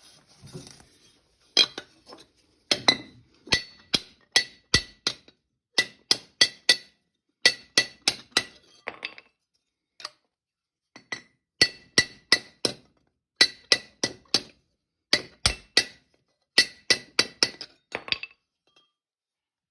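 Hammer blows on a steel exhaust pipe, knocking dents and flattened spots back into shape. The strikes come in quick runs of three to five with short pauses between, each one ringing metallically, and stop shortly before the end.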